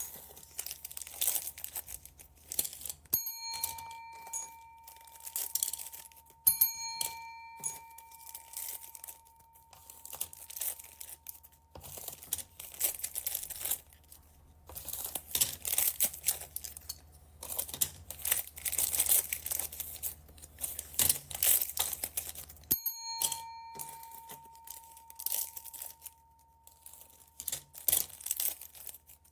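Plastic bags of beads crinkling and being torn open by hand in irregular bursts. A clear ringing tone sounds three times, each fading over a couple of seconds.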